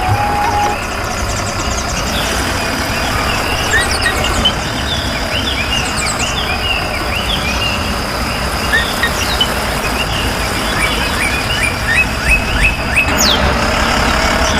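Tractor engine running steadily, with many birds chirping over it.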